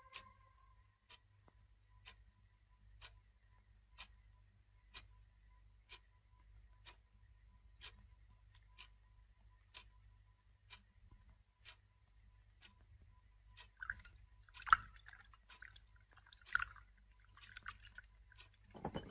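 Clock ticking faintly, about once a second. Near the end a few louder, sudden knocks or creaks sound.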